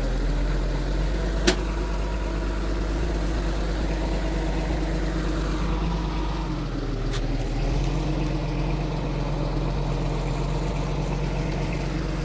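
Mitsubishi G2 bulldozer's diesel engine running steadily, its note shifting slightly about six and a half seconds in. Two sharp clicks sound over it, one about a second and a half in and one about seven seconds in.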